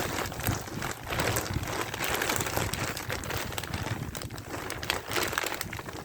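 Potting soil being handled as it goes into the bed: continuous rustling and crinkling with many small scratchy scrapes.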